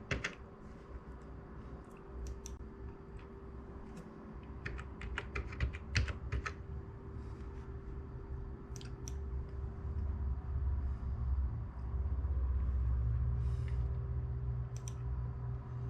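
Typing on a computer keyboard: short runs of key clicks, with gaps between them. A steady low hum runs throughout, and a low rumble comes in during the second half.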